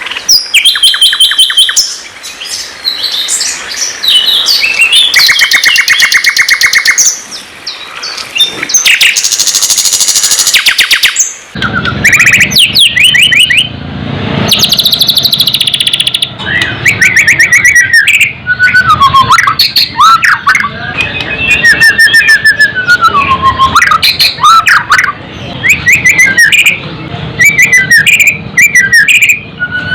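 Songbirds singing, white-rumped shama with sikatan londo flycatcher: fast repeated trills and rattling notes, then about eleven seconds in a change to varied whistled phrases that slide up and down.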